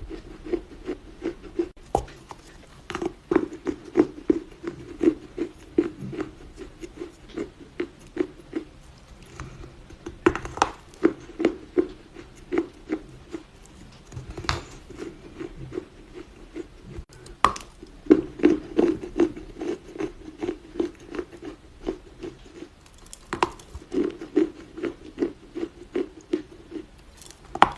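Dry Chinese loess (earth clay) being bitten and chewed in soft crunches, about two or three a second, with a sharper crack now and then as a piece breaks.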